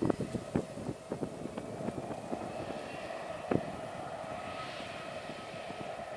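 A distant aircraft's engines droning steadily, mixed with wind buffeting the microphone that dies down over the first couple of seconds. A single sharp knock comes about three and a half seconds in.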